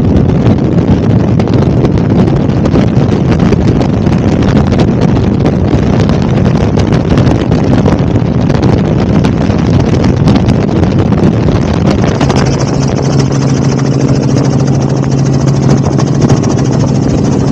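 Helicopter engine and rotor noise, loud and continuous, with rough wind-like rumble at first. About twelve seconds in it changes abruptly to a steadier hum with a high whine.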